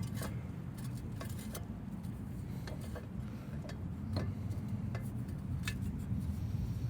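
Scattered light metal clicks and taps, about a dozen over several seconds, as a truck's front wheel hub assembly is handled and fitted onto the steering knuckle. Under them runs a steady low hum.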